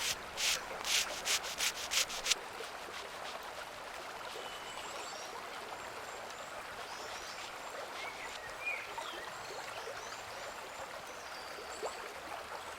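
Sandpaper rubbing on wood by hand: about six quick strokes in the first two seconds. Then a steady rushing background like a flowing stream, with a few faint high chirps.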